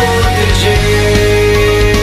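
Loud hard rock music with heavy distorted instruments and a pounding low end, and one long note held steady from about half a second in.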